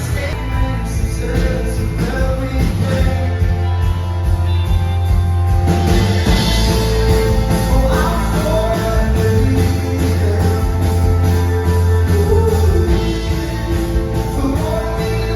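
Rock band playing live: heavy bass and steady drums, with a sustained melody line bending over them.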